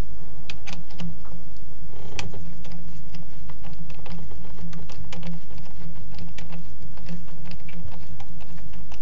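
Irregular clicks, taps and crackles of hands working plastic parts: the air filter, its bag and the plastic intake pipe. They run over a steady low rumble.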